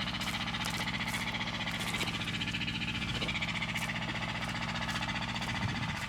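Tractor engine running steadily with a low, even chugging.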